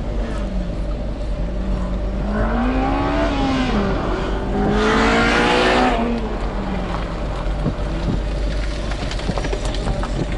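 Abarth 124 Spider's turbocharged 1.4-litre four-cylinder engine revved twice with the car standing still, rising and falling in pitch each time; the second rev, about halfway in, goes higher and louder, and between and after the revs it idles.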